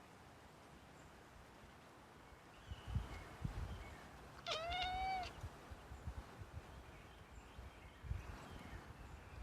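A cat meows once, a short call about halfway through that dips sharply and then rises slightly and holds. Low thumps and rumbles come and go around it, the loudest a little before the meow.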